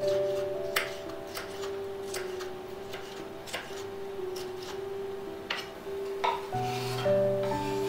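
Soft background music with held melody notes, over which come several sharp clicks and light knocks of dishes and utensils being handled.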